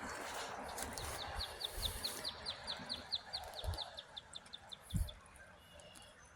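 A small songbird singing one fast, even trill of about twenty short high notes, roughly seven a second, lasting close to three seconds. There are two dull low thumps near the middle and end.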